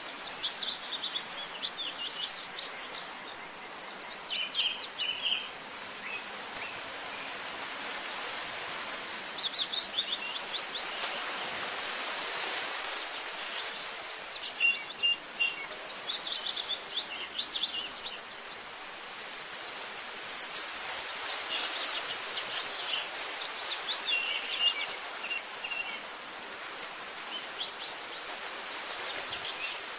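Birds chirping in short, rapid phrases every few seconds over a steady outdoor hiss.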